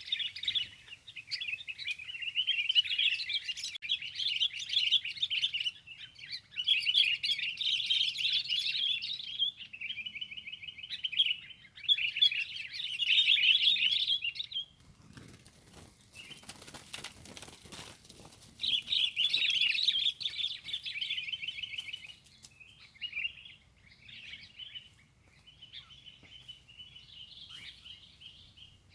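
Kutilang (sooty-headed bulbul) chattering song in repeated loud bouts of fast, scratchy notes. About halfway through there is a short noisy rustle. After it the song returns, then thins to fainter, sparser calls.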